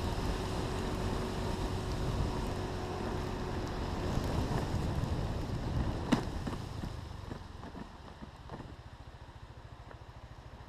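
Wind buffeting a GoPro Hero 3's microphone as a steady low rumble, with a single sharp knock about six seconds in; the rumble eases off from about seven seconds.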